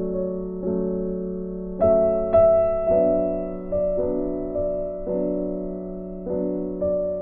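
Soft background piano music: slow sustained chords struck about once a second, each fading away.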